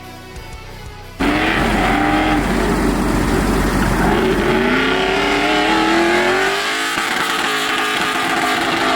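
Soft music, then about a second in a sudden cut to a loud LS V8 revving hard, its pitch rising and falling, with tyres squealing as in a drift run.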